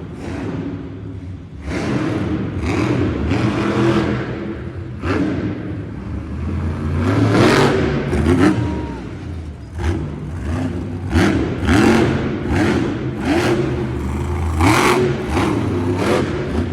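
Monster truck's supercharged engine revving hard in repeated bursts, its pitch climbing with each stab of the throttle, with sharp bangs and clatter between the revs as the truck jumps and lands.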